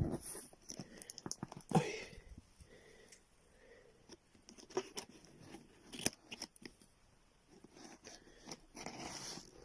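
Packaging being handled and torn open: irregular rustling, tearing and crinkling with scattered small clicks and taps, the loudest bursts about two seconds in and near the end.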